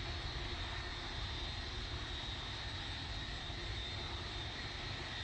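Jet airliner engines running, a steady low rumble with a thin, steady high whine.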